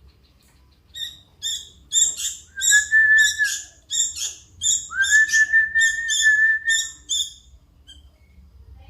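Young sooty-headed bulbul chick chirping in a quick series of short, high calls, about two to three a second. Two longer steady whistled notes sound over it, one near the middle and a longer one after it.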